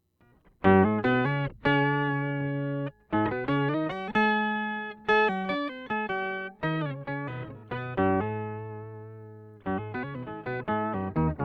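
Electric guitar played through a Boss OC-5 octave pedal: a run of plucked notes and short phrases, each ringing and fading. It starts about half a second in, with brief breaks about three seconds in and near the end.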